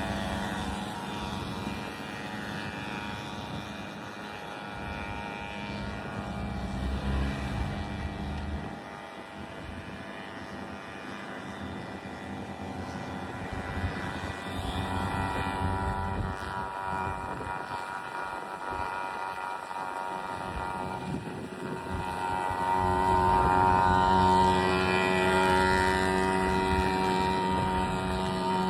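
Small single-cylinder two-stroke engine of a Babetta moped running with a buzzing note. Its pitch rises and falls as the revs change, it fades in the middle, and it grows louder near the end.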